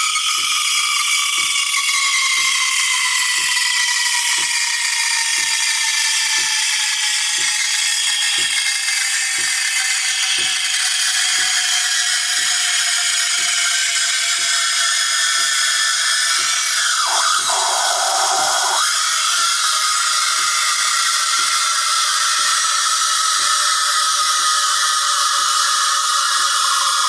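Breville Barista Max+ steam wand frothing milk in a cup: a steady hiss with whistling tones that slowly fall in pitch, over a regular low ticking a little more than once a second. About two-thirds of the way through there is a short burst of rougher, lower noise.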